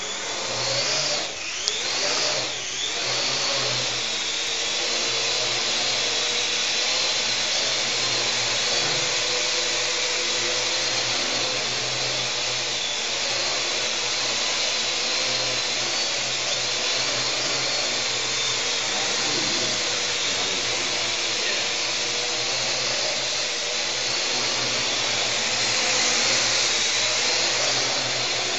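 Parrot AR.Drone quadcopter's motors and propellers whirring steadily in flight, the pitch sweeping up and down in the first few seconds.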